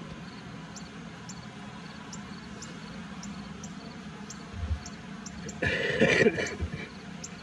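Honeybees buzzing as a steady low hum at an opened horizontal hive, with faint high-pitched ticks about twice a second. A dull thump comes a little past four and a half seconds in, and a brief loud rasping noise follows about a second later.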